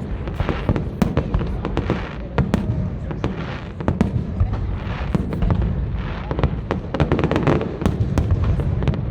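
Aerial fireworks display: a dense run of shell bursts and crackling reports, many sharp bangs in quick succession over a continuous low rumble of explosions echoing.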